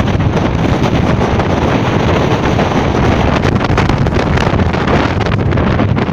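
Gale-force wind buffeting the microphone: a loud, unbroken rumbling rush of noise.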